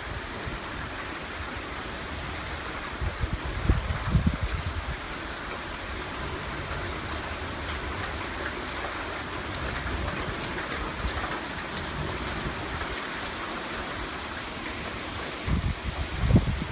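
Heavy thunderstorm rain pouring steadily. Wind gusts buffet the microphone with a low rumble twice, a few seconds in and again near the end.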